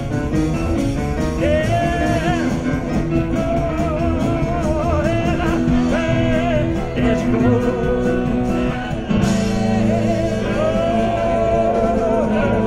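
Live rock band playing an instrumental jam, with a lead guitar bending notes over bass and drums. The chords shift about nine seconds in.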